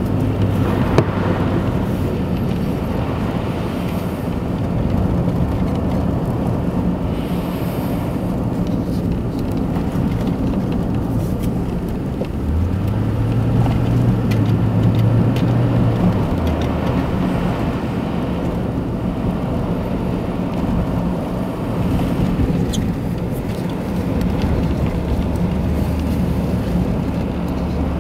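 Car driving along a road: a steady engine hum and tyre and road noise. The engine note rises and strengthens about halfway through for a few seconds, then drops back.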